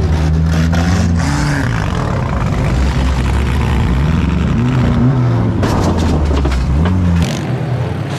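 Demolition derby car engines revving up and down hard, with several sharp crashes of impacts between cars. Near the end the engine sound drops away to a quieter background.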